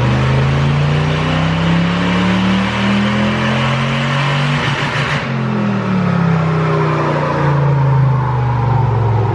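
Supercharged engine of a Toyota off-road race truck making a full-throttle dyno pull: the revs climb for about five seconds, then the throttle closes and the revs fall steadily as it winds down.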